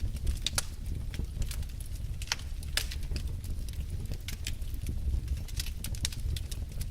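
Wood fire burning in a fireplace: a steady low roar of flames with frequent irregular crackles and pops from the logs.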